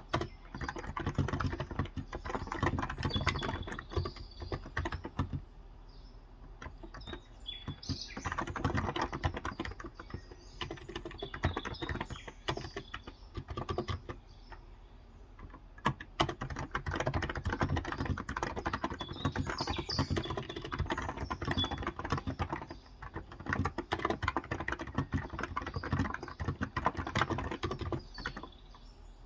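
Typing on a Cox Endeavour electrostatic capacitive tenkeyless keyboard with 35 g switches: fast runs of keystrokes broken by a few brief pauses, with birds chirping faintly in the background.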